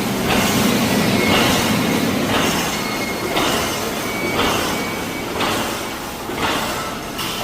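An automatic wire mesh welding machine running, its steady mechanical noise rising in a regular surge about once a second.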